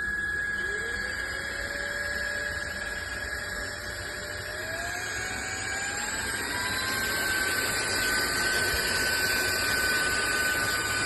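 SMOTURE cordless stick vacuum's motor starting up and running steadily with a high whine over a rushing airflow hiss, a second, lower tone climbing slowly in pitch as it runs.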